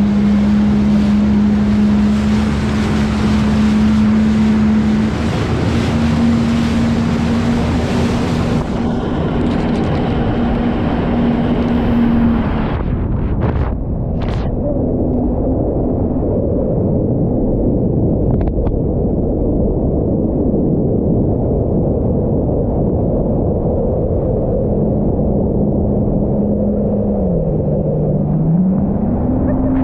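Jet ski engine running steadily over water and wind noise on the microphone; the sound goes duller about halfway through, and near the end the engine note drops briefly and then picks back up.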